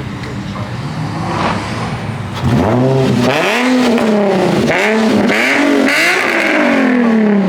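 A car engine idles low, then from about two and a half seconds in revs hard several times in a row. Its pitch rises and falls about five times.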